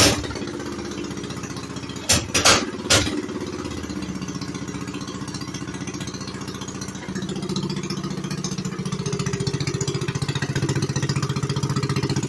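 Coleman minibike's 196cc single-cylinder engine running through its aftermarket exhaust pipe, first at a low idle, then rising in speed and getting louder about seven seconds in and again a couple of seconds later. Three sharp knocks come a couple of seconds in.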